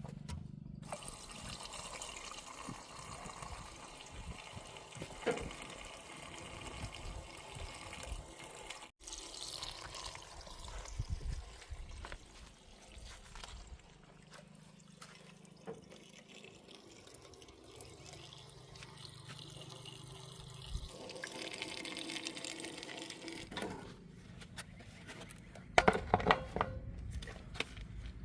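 Diesel engine of a JCB 3DX backhoe loader running steadily under wet, sloshing and scraping sounds of mud being dug and dumped. There is a cluster of loud knocks near the end.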